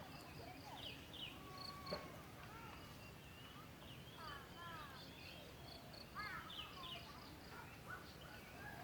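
Faint outdoor birdsong: several birds giving short whistled chirps and quick downward-sweeping notes, over a high insect chirping in quick regular pulses.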